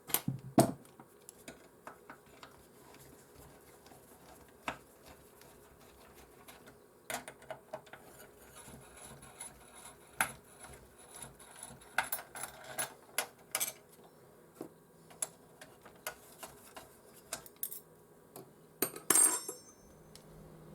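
Scattered small clicks and clinks of tools, screws and plastic parts being handled while a PlayStation 4 is taken apart, with a louder cluster of clatters near the end.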